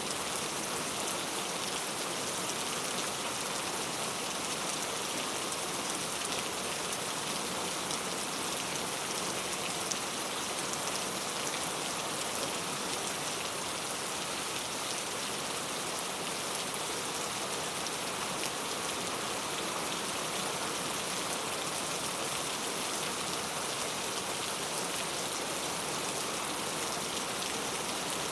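Heavy rain falling steadily, a dense even hiss of drops on hard surfaces with fine scattered patter.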